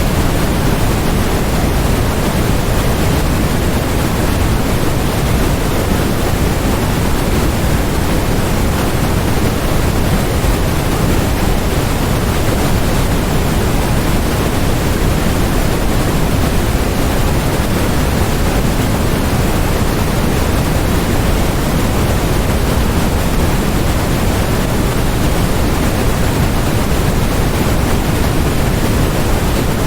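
Continuous electronically generated noise, a steady, even hiss that is fuller in the low end than in the highs, with no change over time.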